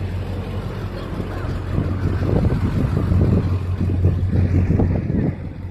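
A motor vehicle engine running close by: a steady low hum with a rougher rumble that grows louder about two seconds in.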